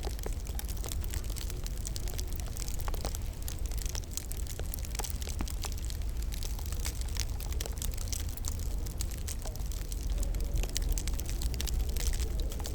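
Wood fire crackling in a fireplace, with frequent small irregular pops over a steady low rumble.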